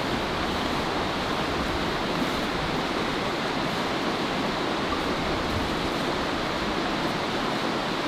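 Steady rushing of running water, an even noise with no distinct events.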